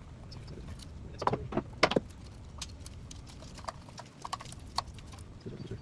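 Scattered light clicks and knocks of tools and parts being handled while dismantling a car's engine bay, with three sharper knocks close together a little under two seconds in.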